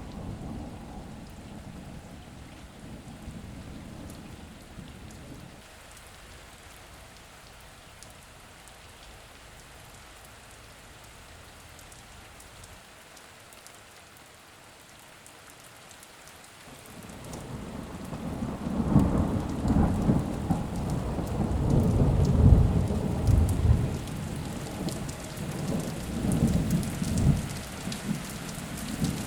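Steady rain with thunder. A low rumble dies away in the first few seconds, leaving only the rain; then a long roll of thunder builds about seventeen seconds in and rumbles on for about ten seconds, the loudest part.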